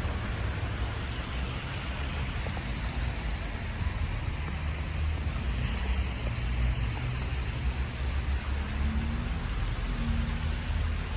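Steady city street ambience: a low traffic rumble with wind noise over it.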